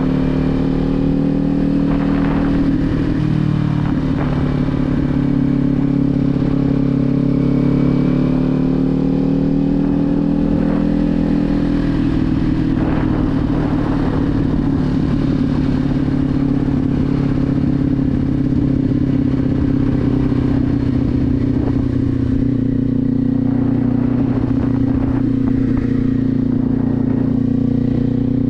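Kawasaki Z400's parallel-twin engine running steadily, its pitch rising and falling gently in the first half and then holding level.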